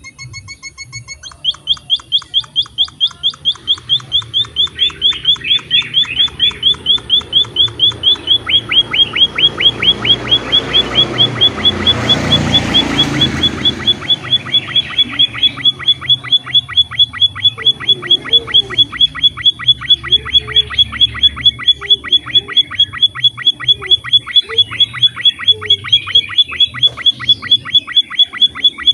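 A small finch of the emprit (munia) kind calling in a fast, steady train of sharp high chirps, several a second, which begins about a second and a half in. A rushing noise swells and fades in the middle.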